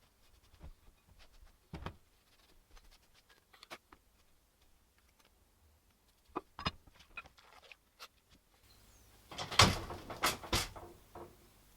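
Workshop handling sounds: scattered light clicks and knocks, then a louder cluster of clattering knocks and a scrape near the end.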